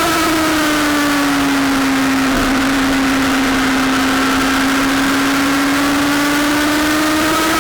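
Sportbike engine running on the track: its pitch drops as it slows over the first two seconds, holds steady through the middle, then rises again near the end as it accelerates, over a steady rushing noise.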